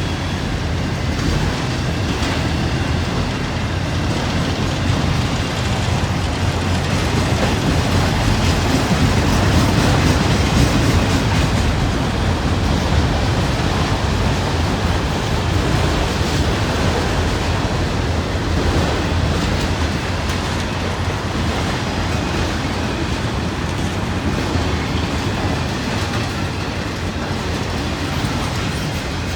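Freight train cars rolling past close by, a steady, unbroken noise of wheels on the rails.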